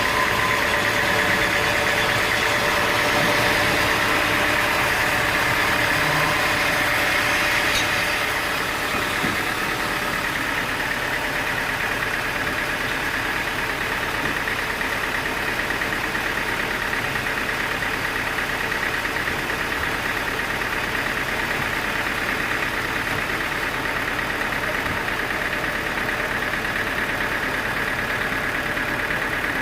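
Sawmill machinery running steadily with a continuous engine drone, a little louder for the first eight seconds or so before easing to an even level.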